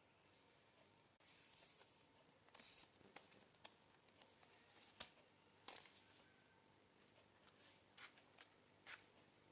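Near silence: room tone with a handful of faint, short clicks and rustles.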